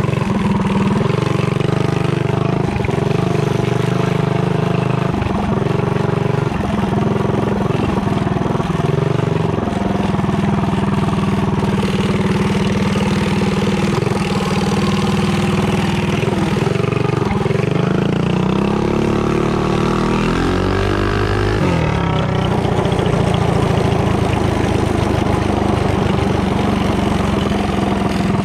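Small engine of a mini bike with a torque converter running under load on a test run. It holds a steady pitch for long stretches, and its pitch swings up and back down about two-thirds of the way through.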